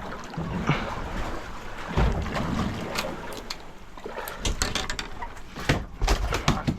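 Wind and water noise aboard a small open fishing boat, with a low thump about two seconds in and a run of sharp knocks and clatter in the second half.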